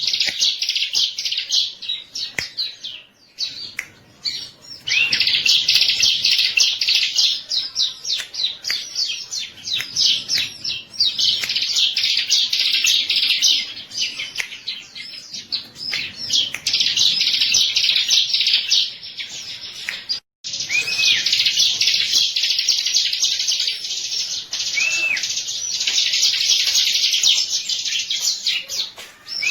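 Ciblek, a small prinia, singing a fast chattering song of rapid high notes in long runs. There is a short pause a few seconds in and another brief break about two-thirds of the way through.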